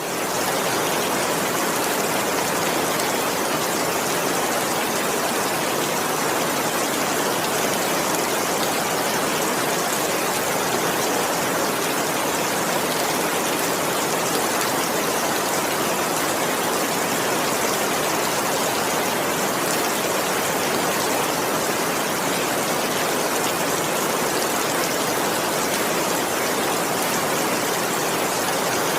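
Steady rain falling, an even, dense hiss that fades in at the very start and then holds level throughout.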